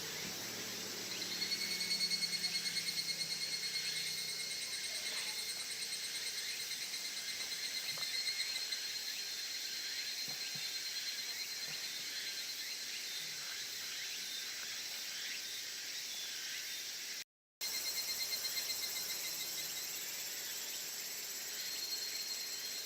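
Insects trilling in a steady evening chorus, with one closer, high, finely pulsed trill that starts about a second in and fades out around eight seconds, then returns near the end. The sound drops out completely for a moment about three-quarters of the way through.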